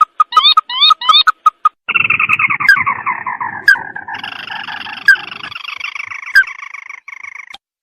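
Red-eyed crake ('tikusan mata merah') calls from a bird-luring recording. A few quick rising notes come first, then a long rapid trill that slides down in pitch, then a second long trill. Sharp clicks are scattered through it.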